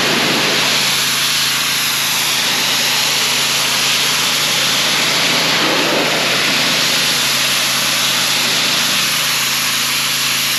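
Gas-engine pressure washer running steadily, its water jet hissing against a retaining wall as it strips off dirt and algae.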